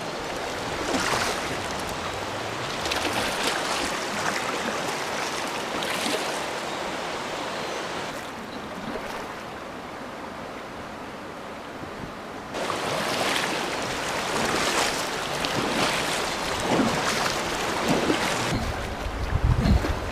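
River water rushing and splashing around a kayak, with repeated surges every second or two. It eases off for a few seconds about halfway through, and wind rumbles on the microphone near the end.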